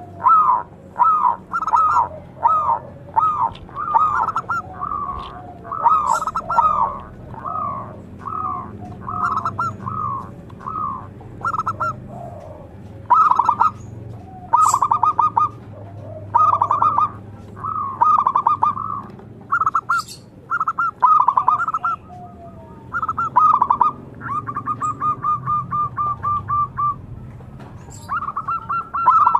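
Zebra doves (perkutut) calling: a steady series of short, clipped cooing notes repeated about twice a second, with a quicker unbroken run of notes near the end.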